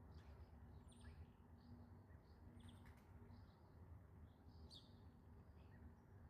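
Faint birds chirping, many short scattered calls over a low, steady background rumble.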